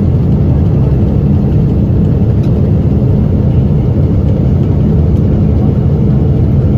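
Loud, steady low roar of a Boeing 777 in flight, heard from inside the cabin.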